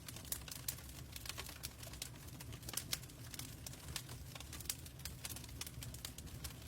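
Log fire crackling in a fireplace: irregular sharp pops and snaps of burning wood over a low, steady rumble of the flames.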